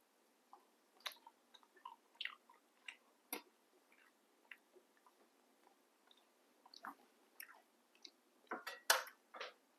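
Faint, scattered clicks and small smacking sounds of chewing, coming every second or so, with a louder run of sharp clicks near the end.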